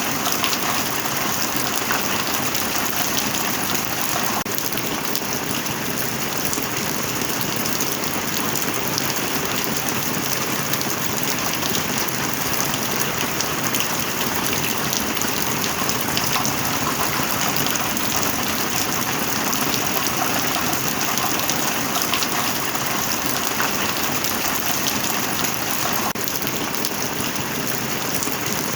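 Rain falling steadily: a dense, even hiss with fine patter of drops.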